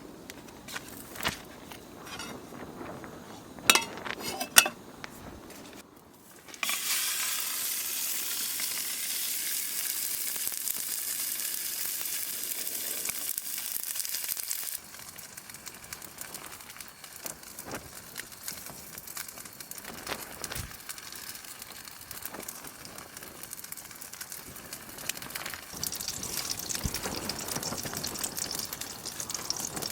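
Food sizzling and frying in a pan. A few knocks and clinks of handling come first, then loud sizzling starts suddenly about six seconds in and drops away sharply around halfway, with quieter sizzling swelling again near the end.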